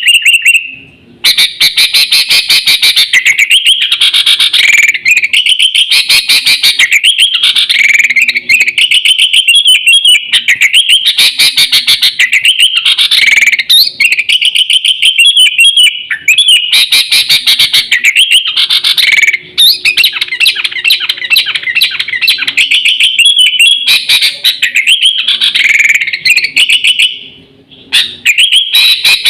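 Sooty-headed bulbul (kutilang) singing loudly and almost without pause in fast, chattering phrases, a lure call of a bird in full song, with a short break near the end.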